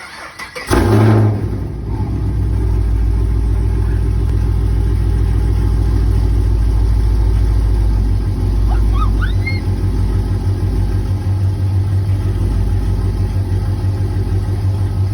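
2015 Camaro SS's 6.2-litre V8, breathing through long-tube headers with no catalytic converters and no mufflers, starting up. The engine catches with a loud flare under a second in, then settles into a steady, loud idle.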